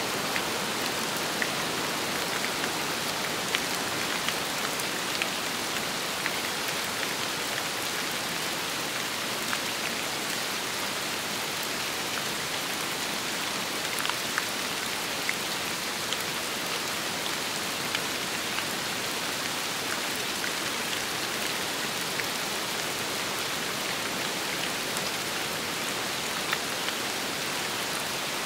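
Steady rain falling: a dense, even hiss with scattered louder drops ticking now and then.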